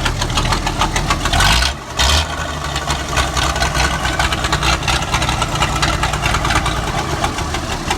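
Massey Ferguson 375 tractor's diesel engine running through a modified exhaust silencer that is only held in place and not yet welded, with a rapid, even exhaust beat. It surges briefly about a second and a half in, dips, then settles back to steady running.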